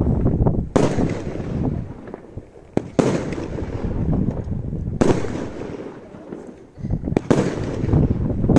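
Fireworks bursting overhead: four sharp bangs about two seconds apart, each followed by rumbling and crackling that fades before the next.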